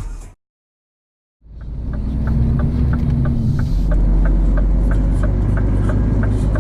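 Background music fades out into a second of silence, then the low rumble of a Scania truck heard from inside the cab fades in, with a steady light ticking about three times a second.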